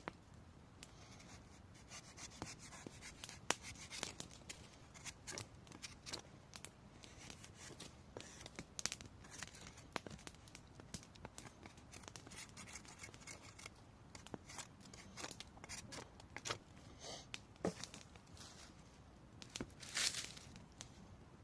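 Knife carving wood in faint, irregular scraping and shaving strokes, with scattered sharp clicks.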